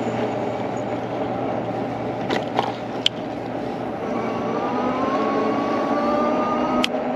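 Riding noise from an electric bike, with wind rushing over the chest-mounted camera microphone. The motor's whine rises slowly in pitch over the second half as the bike speeds up, and a few sharp clicks come through along the way.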